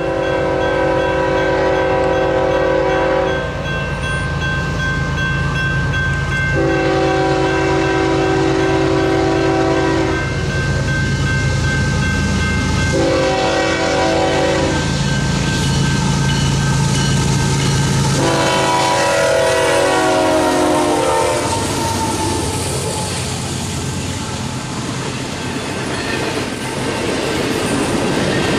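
Union Pacific GE diesel locomotives approaching and passing, their horn sounding the grade-crossing pattern: two long blasts, a short one, then a long one that falls in pitch as the engines go by. The engines rumble under the horn. Then comes the steady rolling and clatter of double-stack container well cars passing.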